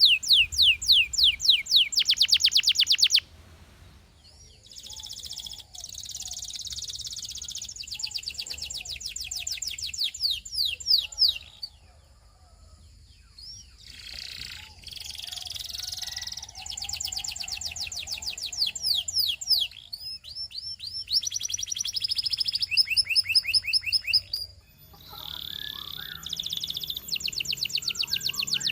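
Russian canary singing: fast trills and rolls of repeated sweeping notes, in long phrases with short breaks about 3, 12 and 25 seconds in.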